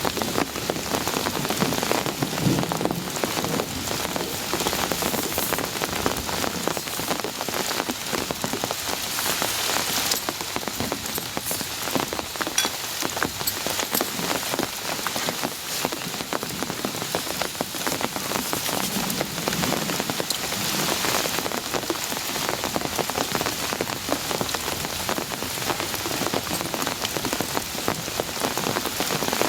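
Heavy rain falling steadily, with a dense stream of individual drop hits on a surface.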